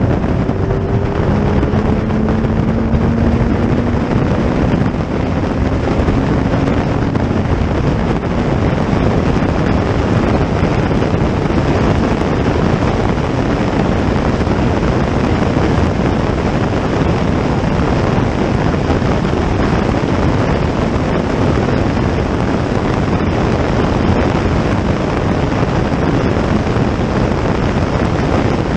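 Loud, steady rushing of wind on the microphone, with a racing car's engine rising slowly in pitch under acceleration over the first several seconds.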